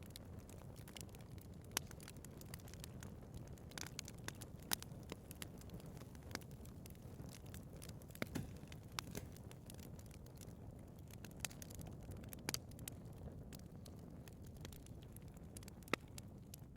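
Wood fire burning in a fireplace: a steady low rush of flames with frequent irregular crackles and sharp pops, a few of them louder than the rest.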